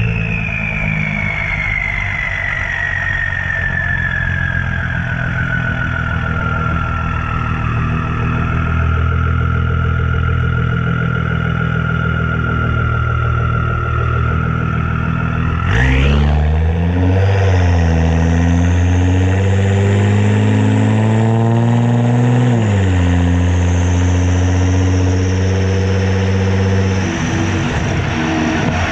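Twin-turbo 3.7 L V6 Ford Mustang engine and exhaust running under way, with a whine falling steadily in pitch over the first several seconds. About halfway in the note jumps up and climbs for several seconds as the engine accelerates, then drops back, and drops again near the end.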